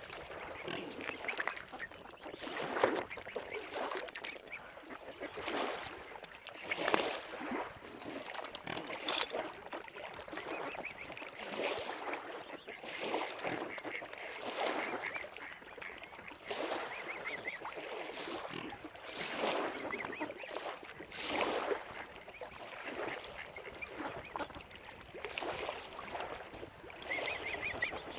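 Waterfowl calling over and over, a call every second or two, some louder and closer than others.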